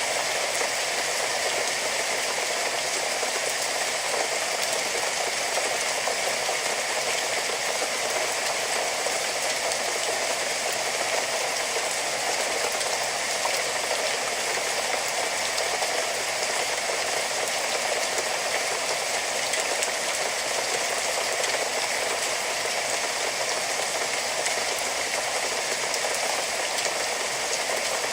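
Steady rain falling, a dense even patter of drops with no pauses or surges.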